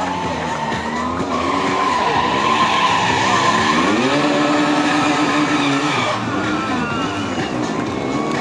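BMW R 1200 GS boxer-twin engine revving under stunt riding: the revs climb about four seconds in, hold high for about two seconds, then drop away, with tyres hissing on the asphalt.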